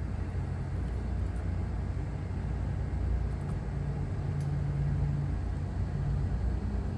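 Steady low machinery rumble with a humming tone that swells about four seconds in and eases off near six seconds.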